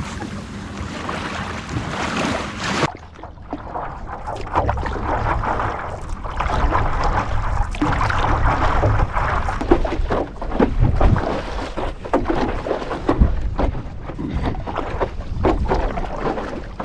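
Wind buffeting the microphone over water splashing and sloshing as a windsurf board and a kayak are paddled out. Irregular small splashes come from paddle strokes, and the sound changes abruptly about three seconds in.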